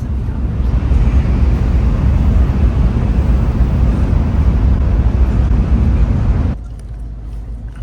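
Steady low rumble and rushing noise of a Shinkansen bullet train running at high speed, which cuts off suddenly about six and a half seconds in.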